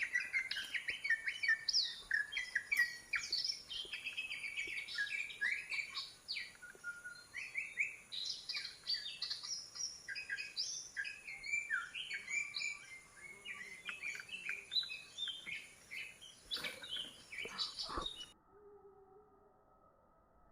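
Songbirds chirping in a fast, busy run of short, varied calls and trills, with a couple of soft knocks near the end before it cuts off suddenly.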